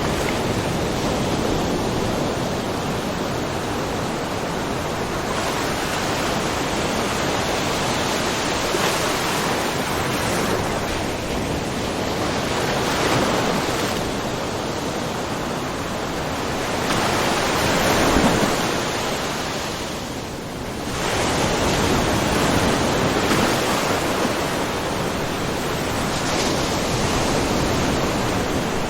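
Small ocean waves lapping and splashing in a rocky cove: a steady wash of water with gentle swells, one stronger splash about 18 seconds in and a brief lull just after 20 seconds.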